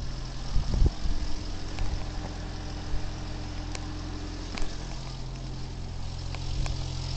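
2008 Toyota Prius's 1.5-litre four-cylinder petrol engine idling steadily, with a couple of knocks about a second in.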